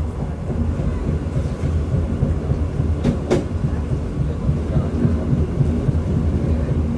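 Majapahit passenger train running along the line, heard from on board: a steady low rumble of wheels and carriage, with one brief sharp clack about three seconds in.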